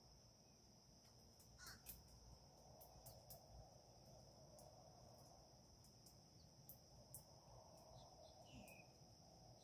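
Faint lakeside ambience: a steady high insect drone with scattered short high ticks, and a single harsh bird call about a second and a half in.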